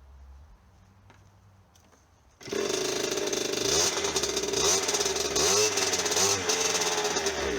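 The small two-stroke engine of a 1998 KTM 50 mini dirt bike catches suddenly about two and a half seconds in. It runs with the throttle blipped, the revs rising and falling several times.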